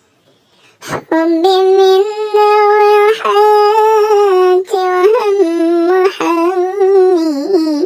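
A high voice singing a sholawat melody in long held notes with wavering ornaments, starting about a second in just after a short click, with a brief break near the middle.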